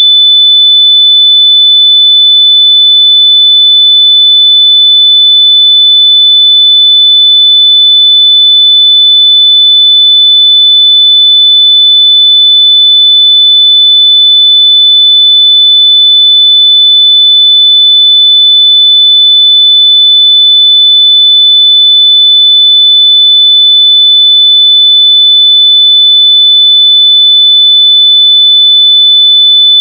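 A loud, steady, high-pitched electronic sine-wave tone held at one pitch without a break, played at full volume to locate lost wireless earbuds.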